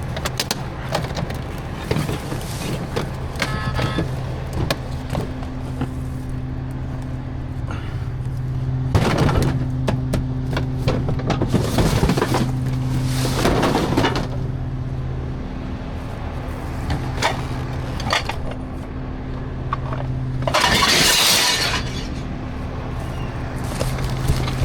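Garbage truck engine running at a steady idle while trash is thrown into it: repeated knocks and clinks of refuse landing, with glass breaking. A louder crash lasting about a second comes near the end.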